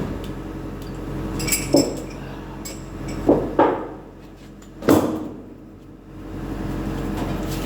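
Four sharp metal clanks and knocks, the loudest about five seconds in, over an excavator's engine idling steadily.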